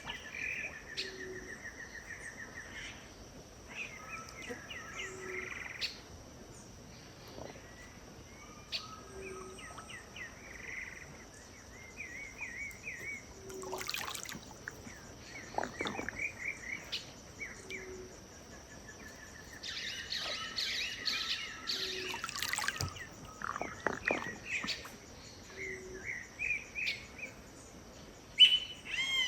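Several wild birds singing and calling, with many overlapping chirps and trills, over a steady high-pitched insect drone. A short low note repeats about every two seconds, and there are a few brief clicks.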